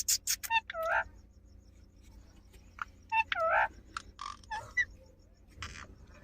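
Indian ringneck parrot giving several short, speech-like calls with gliding pitch, in separate bursts, after a few sharp clicks at the start.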